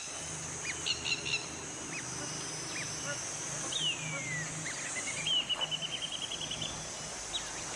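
Birds calling over a steady, high-pitched insect drone. Short chirps come first, then a falling whistle about four seconds in, followed by a quick run of repeated notes that climb slightly.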